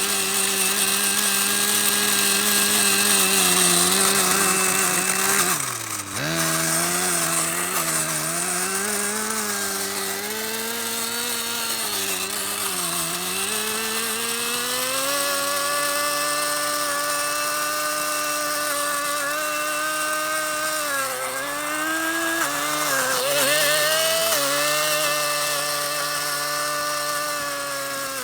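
Small model-aircraft engine of a Blizzard GP running continuously. Its pitch drops sharply about six seconds in, sags again a little later, then holds higher and steadier, wavering briefly near the end as the throttle changes.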